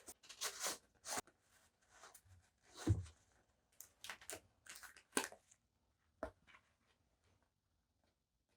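Paper and stationery handled close to the microphone: a run of quick rustling and crinkling strokes, with a soft thud about three seconds in, dying down to faint handling near the end.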